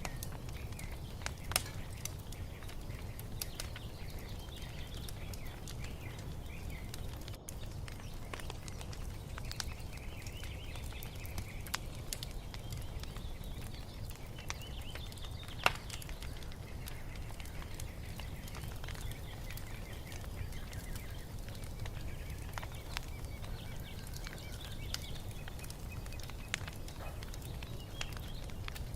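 Wood fire crackling, with a steady low rumble and occasional sharp pops, the loudest about 16 seconds in. Songbirds chirp and warble faintly over it.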